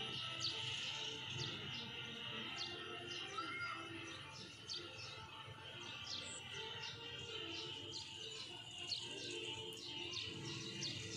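Birds chirping: many short, high chirps over a steady background of outdoor noise.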